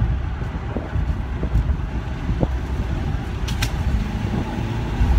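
Audi A3 Cabriolet's 2-litre TFSI engine, fitted with an aFe cold air intake, running steadily under way, heard from the open cabin with road and wind noise. A short high hiss comes about three and a half seconds in.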